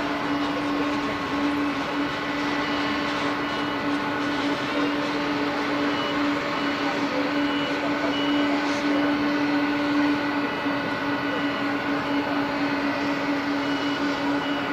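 Airliner engines running steadily on the ground: a loud, even whine with a strong low hum and several higher steady tones. A run of short, high beeps repeats faintly through the middle, like a ground vehicle's reversing alarm.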